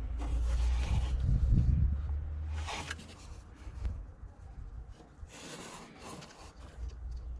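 Rubbing and rustling handling noises in a few short bursts, over a low rumble that fades after about two and a half seconds.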